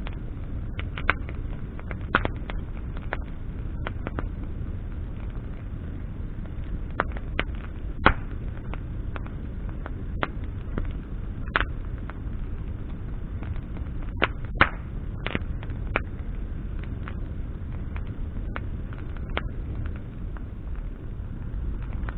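Wood bonfire crackling, with irregular sharp pops from the burning branches, a few of them louder, over a steady low rumble of the fire.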